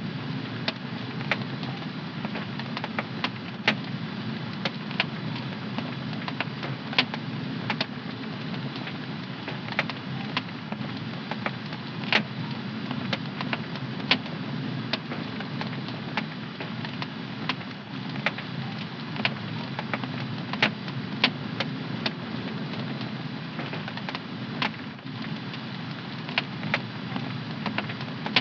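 Wood fire in a home fireplace crackling: irregular sharp pops, about one or two a second, over a steady low rush of flame.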